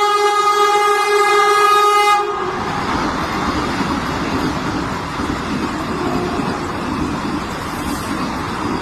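Express train's horn sounding one steady blast that cuts off about two seconds in, followed by the rumble and clatter of the passenger coaches running past.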